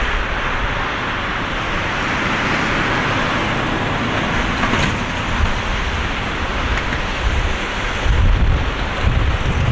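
Boeing 777-300ER's GE90 jet engines running with a loud, steady roar, with a gusty low rumble building from about eight seconds in.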